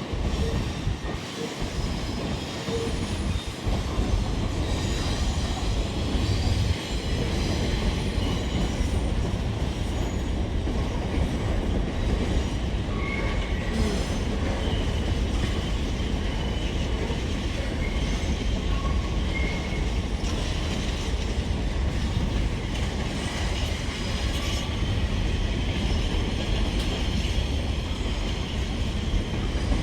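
A train running on the rails with a steady low rumble, with a few brief high-pitched wheel squeals.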